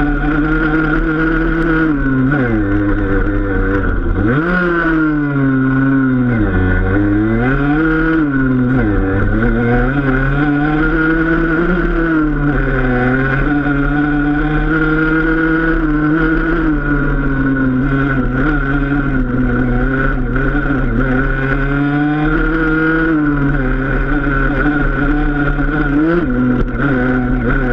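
Enduro dirt bike engine under way, its revs rising and falling again and again with the throttle. There is a sharp drop and climb about four to five seconds in, and a quick blip near the end.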